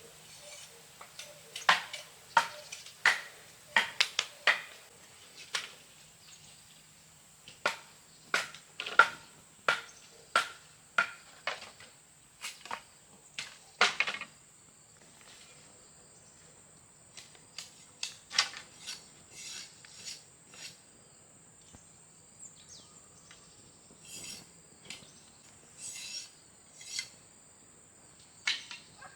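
A series of sharp, irregular knocks and clinks, dense for roughly the first half and sparser later, over a steady high-pitched insect-like drone.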